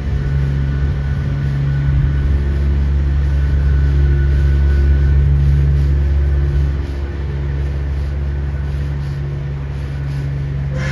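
A motor vehicle's engine running close by, a steady low hum that eases off about seven seconds in.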